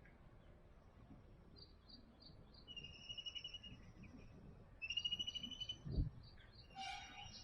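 Birds calling: runs of short high chirps and two rapid trills, each about a second long. A dull thump comes about six seconds in.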